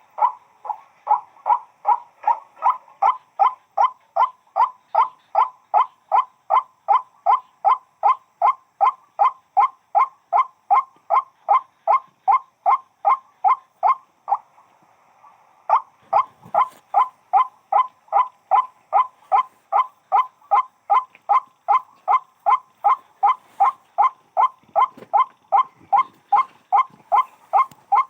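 White-breasted waterhen (burung wak-wak) calling: a monotonous string of short, identical notes, about two a second, with one brief pause about halfway through.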